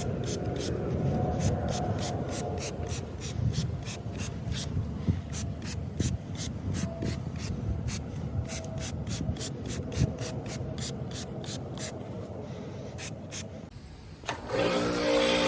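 A wash mitt or sponge scrubbing the car's body panels with an uneven rubbing sound, over a regular fast ticking of about three or four clicks a second. Music comes in near the end.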